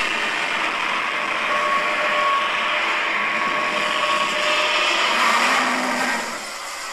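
A composite Godzilla roar mixed from several Godzilla roars: one long, harsh, noisy roar that starts suddenly, holds for about seven seconds and cuts off abruptly.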